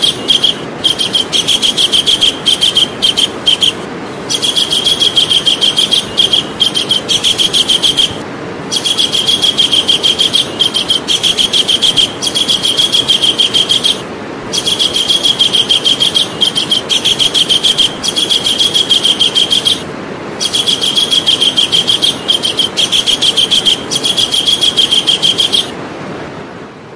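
Javan kingfisher calling: long trains of rapid, evenly repeated high, sharp notes, broken by short pauses every five or six seconds, over a steady hiss.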